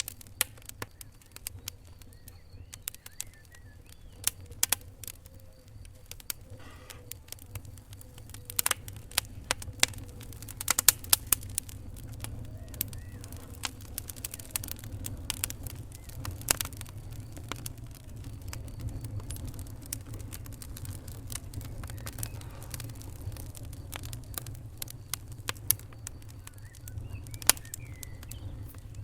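Wood fire in a fireplace crackling, with irregular sharp pops and snaps over a low steady rumble of the flames. The pops come thickest about nine to twelve seconds in.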